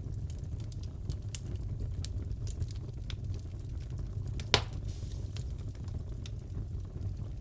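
Wood fire crackling in a fireplace: a steady low rumble with scattered small crackles and one louder pop about four and a half seconds in.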